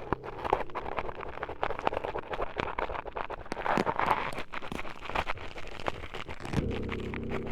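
Close-up ASMR scraping and crackling right against the microphone, a rapid run of small clicks and rubbing sounds. A steady buzzing hum comes in near the end.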